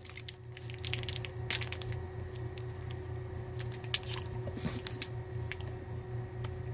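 Scattered small clicks and soft squishy sounds of a Cadbury Caramello chocolate bar being handled and eaten, over a steady low hum.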